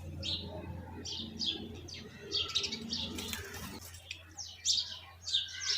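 Birds chirping: a string of short, high chirps, each falling in pitch, coming in quick runs, over a steady low hum.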